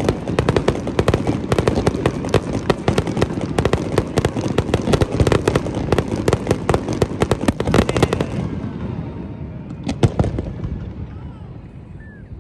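Fireworks going off in a dense, rapid crackle of many sharp bangs a second. About eight seconds in the bangs thin out, with a few last ones around ten seconds before it dies away.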